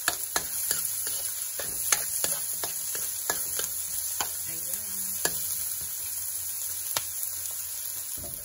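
Chopped garlic and onion sizzling steadily in hot oil in a nonstick pan, sautéing toward light brown. Irregular taps and scrapes of a plastic slotted spoon on the pan as they are stirred.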